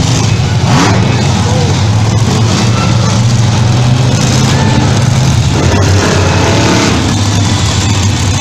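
Big monster truck engines running loud with a steady low drone, over a noisy crowd.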